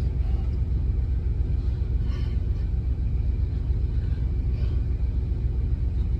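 Idling truck diesel engine: a steady, even low rumble, with a couple of faint brief clicks or mouth sounds over it.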